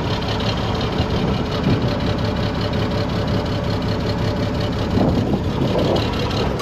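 Farm tractor engine running steadily at close range, cutting off sharply at the very end.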